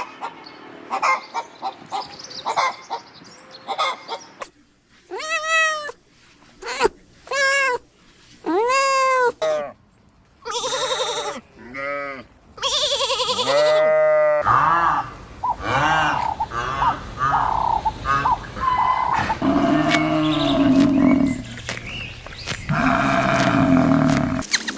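Goats bleating: a series of separate calls, each rising and falling in pitch, coming thicker and overlapping in the second half.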